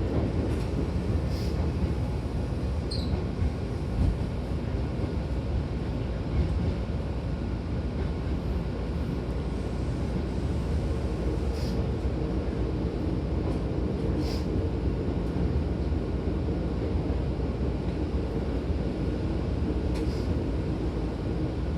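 Hankyu Kyoto Line electric train running, heard from inside the car: a steady low rumble with a few faint, sharp ticks.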